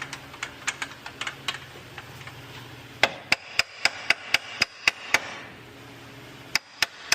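Hammer tapping on steel, a string of sharp metallic taps, scattered at first and then a steady run of about four a second in the middle, as the new lower control arm and its bolt are knocked into place.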